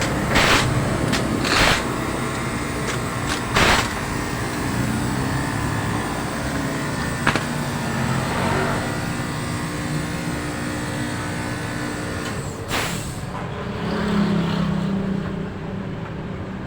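Ford Everest engine running steadily after a cylinder head replacement, with a few short hissing bursts in the first four seconds and a stronger, deeper engine note for a couple of seconds near the end.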